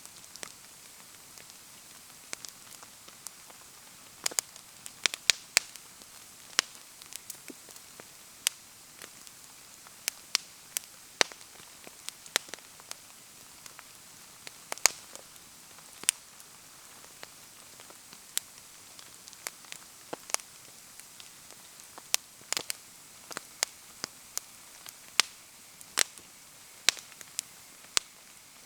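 Wood bonfire crackling, with sharp irregular pops several times a second, over a steady hiss of rain.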